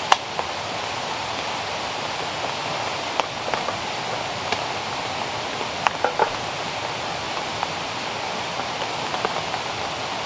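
Steady hiss of water in wet rainforest, with scattered sharp ticks like drops landing.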